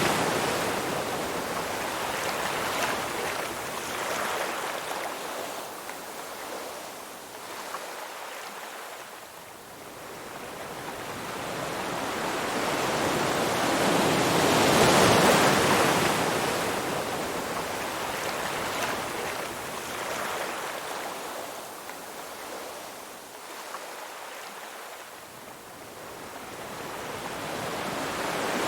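Ocean surf washing in slow swells: the rush of water fades to a lull, a wave builds and breaks about halfway through, dies away again, and the next swell starts rising near the end.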